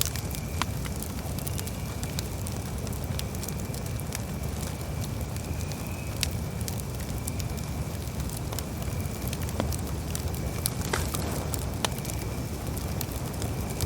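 Campfire burning with a steady low rumble and irregular sharp crackles and pops from the wood, with a faint steady high tone underneath.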